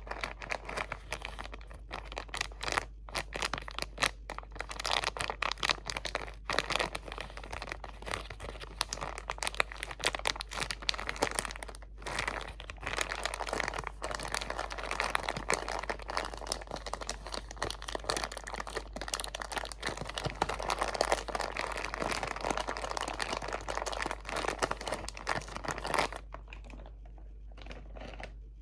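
Close-miked crinkling of crinkly material handled and squeezed, a dense run of irregular crackles that dies away about two seconds before the end.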